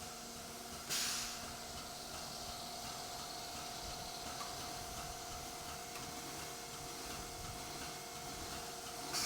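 Hydraulic testing machine running with a steady whine over a constant hiss, broken by a sudden short burst of hissing about a second in and another at the end.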